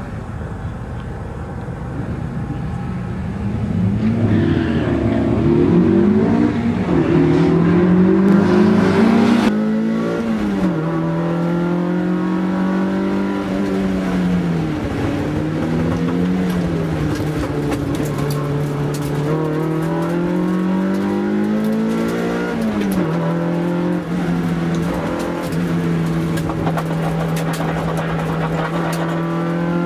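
Toyota AE86 Corolla's 4A-GE twin-cam four-cylinder engine driven hard on a race track, heard from inside the cabin. Its note climbs under throttle and drops sharply at gear changes and lifts several times, then holds steady at high revs for the last several seconds.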